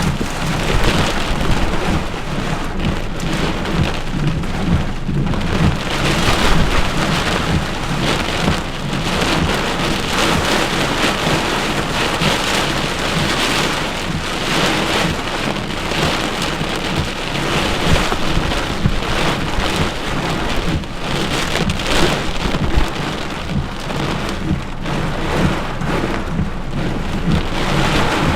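Heavy rain pouring down in a severe thunderstorm, a dense, continuous downpour that surges louder and softer every second or so.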